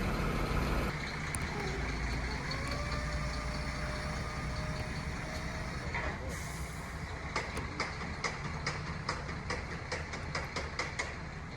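Truck engine idling with a steady low rumble. A faint tone rises and then holds for a few seconds, and after that comes an even ticking of sharp clicks at about two and a half a second.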